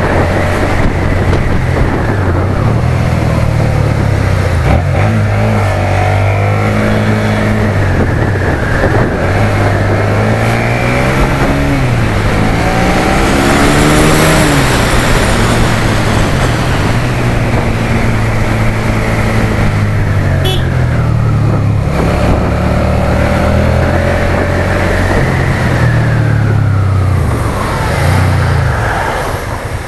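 Suzuki SFV650's V-twin motorcycle engine under way, its pitch rising and falling again and again as the rider accelerates, shifts and slows.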